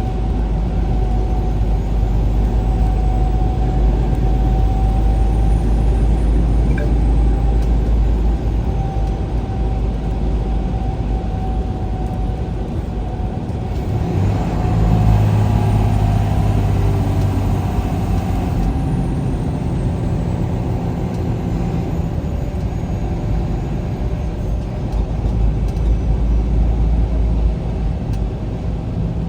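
A vehicle driving along a highway, giving a steady low rumble of engine and road noise. It swells louder for a few seconds around the middle, then settles back.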